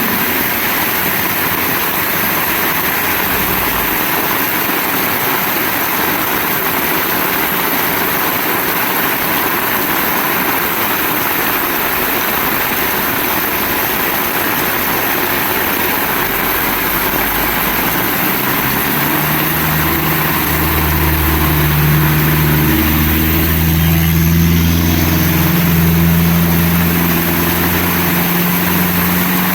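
Heavy rain falling hard and steadily, a dense hiss. About two-thirds of the way in, the low hum of a motor vehicle's engine joins it, holding for several seconds and easing off near the end.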